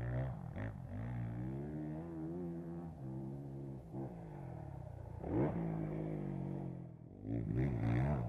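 Motocross bike engines revving hard, their pitch climbing and dropping again and again as the throttle opens and closes through the gears, with a brief lull about seven seconds in.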